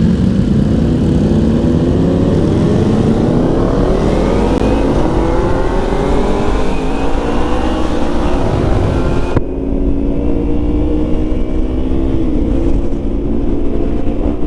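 Motorcycle engine accelerating while riding, its pitch climbing steadily for several seconds and then holding at a steadier speed. A high rushing hiss over it cuts off suddenly about nine seconds in.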